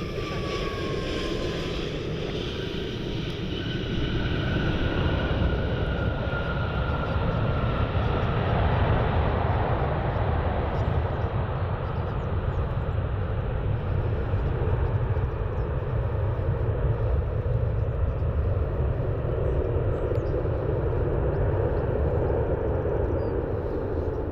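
Jet airliner's engines passing, with a whine falling in pitch in the first seconds and a second fainter whine, over a rumble that builds about four seconds in and holds steady.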